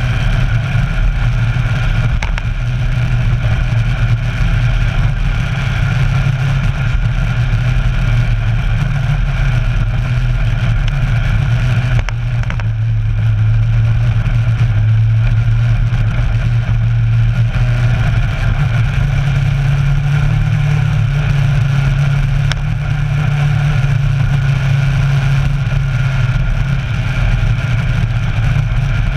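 Kawasaki Versys 1000's inline-four engine running steadily at riding speed, heard from a camera mounted on the motorcycle, with a steady rushing noise under it. The level dips briefly about twelve seconds in.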